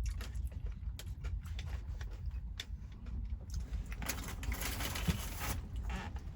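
Steady low rumble in a truck cab, with scattered small clicks and taps and, about four seconds in, a hiss of noise lasting about a second and a half.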